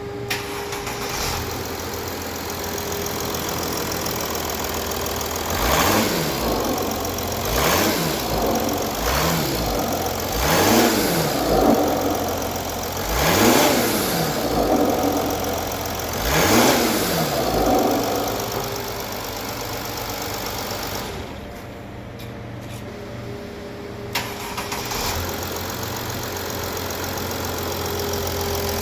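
Mercedes-Benz ML 320 CDI (W164) OM642 3.0-litre V6 turbodiesel running at idle. Between about six and eighteen seconds in it is blipped several times, each time revving up and dropping straight back to idle.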